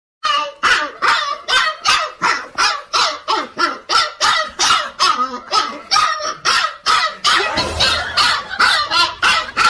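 Dog barking rapidly and without a break, about two or three sharp barks a second.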